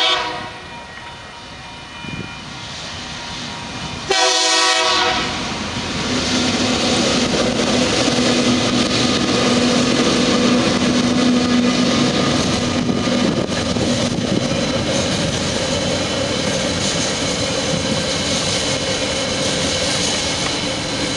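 Freight train diesel-electric locomotives sound their horn, one blast cut off just after the start and a second, about a second long, about four seconds in. The locomotives then pass close by with a steady engine drone, followed by loaded container wagons rolling over the crossing with wheel clatter.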